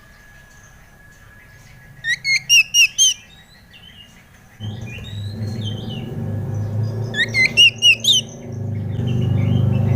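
Oriental magpie-robin (kacer) singing: two bursts of quick, repeated hooked whistled notes a few seconds apart, with softer chattering notes between them. A low drone comes in about halfway and grows louder toward the end.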